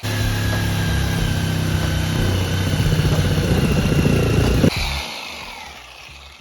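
A power tool's motor running under load as it cuts. It is switched off about three-quarters of the way through and winds down with a falling whine.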